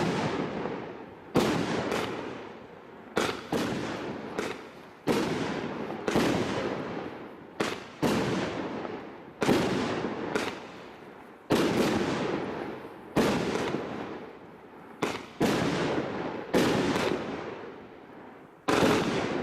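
Thunder Strike 48-shot barrage firework cake firing shot after shot: a sharp bang about once a second, each fading away over a second or so before the next.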